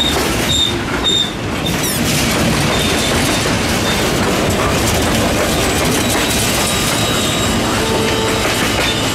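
Freight train cars rolling past a grade crossing, a steady loud rumble and clatter of wheels on rail. A crossing bell dings about twice a second during the first second or so.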